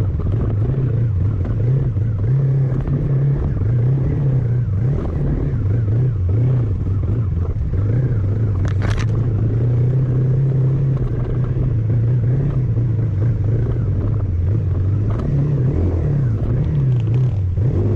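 A motor vehicle's engine running steadily, a low drone that wavers slightly in pitch, with road noise under it; a brief hiss about nine seconds in.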